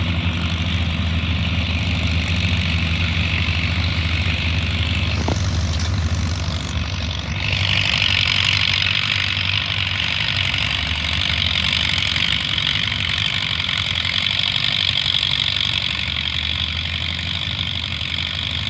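Pulling tractor's engine running steadily with a low rumble. About seven seconds in, a loud, high rushing hiss joins it and continues.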